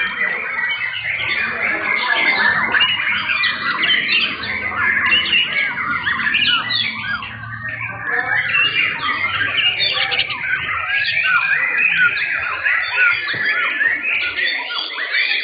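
Many caged young white-rumped shamas (murai batu) singing at once in competition, a dense, unbroken tangle of overlapping whistles, chirps and trills.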